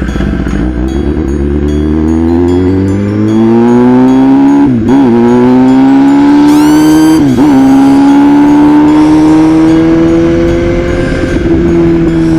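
BMW S1000RR's inline-four engine through an Austin Racing de-cat titanium exhaust, very loud, accelerating hard: the revs climb, two quick upshifts break the rise about five and seven seconds in, then the engine holds a high, steady pitch that eases slightly near the end.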